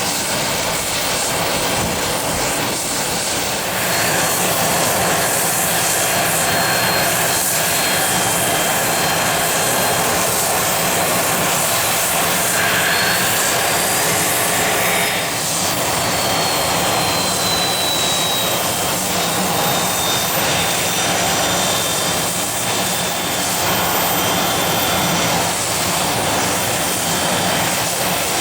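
Business jet engines running with a steady roar that grows louder about four seconds in, under a faint high whine that rises and then falls a little past the middle.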